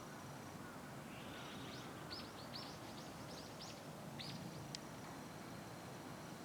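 A bird chirping: a quick run of short, high chirps from about one and a half seconds to nearly five seconds in, over a steady low background hum of outdoor noise.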